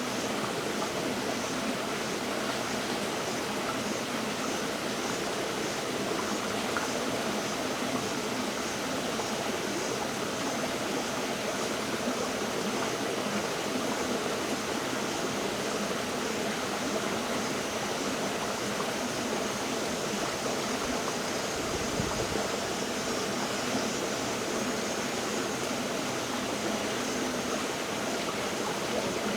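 River water flowing in a steady rushing wash, with one brief low bump about 22 seconds in.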